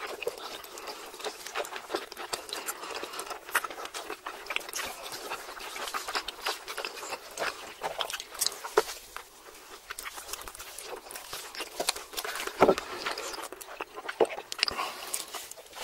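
Close-miked eating sounds: people chewing steak and melted cheese, a steady run of wet mouth clicks and smacks.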